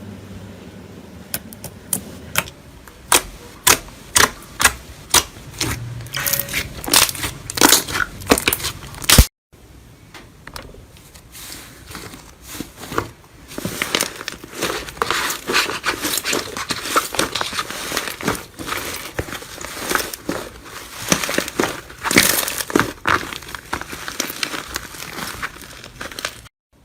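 Crunchy slime being squeezed and pressed, giving sharp crackles and pops. The sound drops out briefly about nine seconds in, after which the crackling comes thick and almost continuous.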